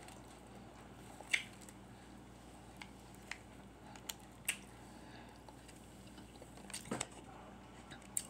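Quiet eating of KFC chicken tenders: scattered soft mouth clicks and smacks, the loudest about a second and a half in, with a duller knock near the end, over a faint steady hum.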